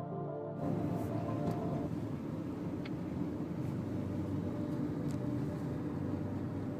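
Background music cuts off about half a second in, giving way to a steady low rumble of vehicle noise with no clear rhythm.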